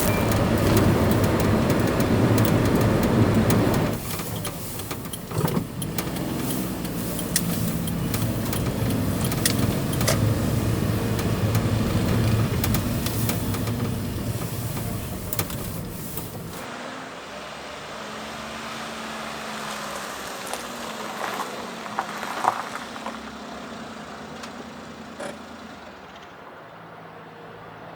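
Vehicle running, a steady mechanical rumble with road and wind noise, loudest in the first few seconds. About two-thirds through it changes abruptly to a quieter, duller background with a few knocks.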